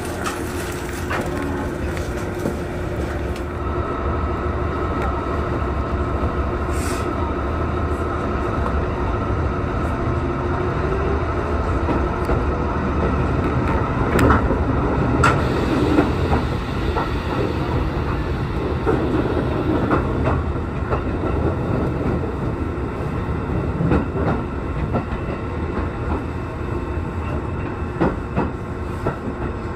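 Local electric train pulling out of a station, heard from inside the car: steady running noise with wheels clicking over the rails, a whine setting in a few seconds in, and a few sharp knocks in the middle.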